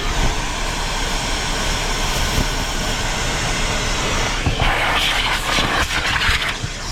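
Vacuum cleaner running steadily, with a louder, rougher rasping stretch of a couple of seconds past the middle.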